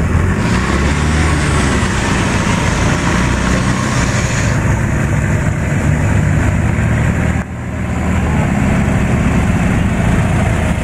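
Off-road 4x4 engine running steadily under load, with a short drop in level about two thirds of the way through.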